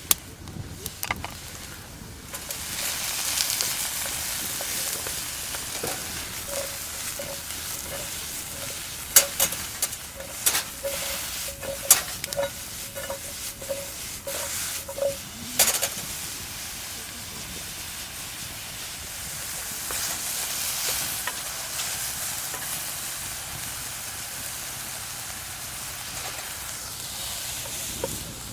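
Food sizzling in a frying pan, with a utensil stirring and scraping in the pan; a run of sharp knocks and clicks against the pan comes in the first half. The sizzle swells about two seconds in.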